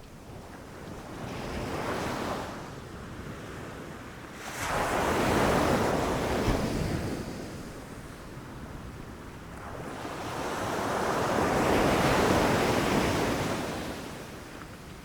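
Ocean waves rushing and crashing: three surges of surf, a small one about a second in, a loud one that breaks suddenly about four and a half seconds in, and a third that swells and fades in the last third, with softer wash between them.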